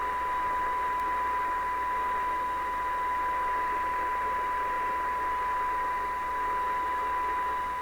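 Steady 1 kHz test tone with background hiss from the Cobra 29 LTD Classic CB radio's speaker. The receiver is demodulating a tone-modulated test signal while its stages are peaked for maximum output during alignment.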